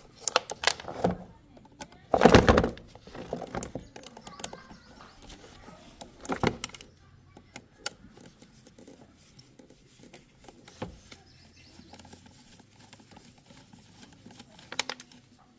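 Clinks, knocks and rattles of small metal parts and hand tools being handled during carburetor work, in irregular bursts, loudest about two seconds in and again about six seconds in.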